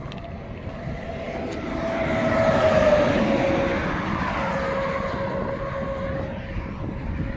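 A vehicle passing by on the highway: its sound builds, peaks about three seconds in, then fades, with a whining tone that drops in pitch as it goes by.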